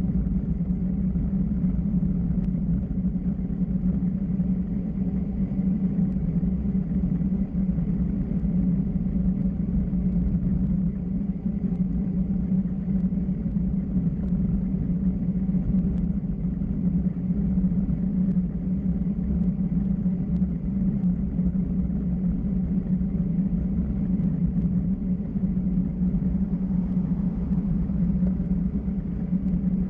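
Steady low rumble of road and wind noise while moving downhill at speed, with a constant drone around the low-mid range and no change through the stretch.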